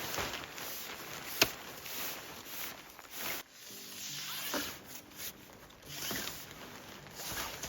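Repeated rustling and crunching handling noises, with one sharp click about a second and a half in.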